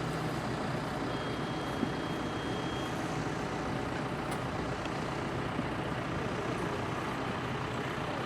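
Tractor diesel engine running steadily, with a faint thin high tone for about two seconds near the start.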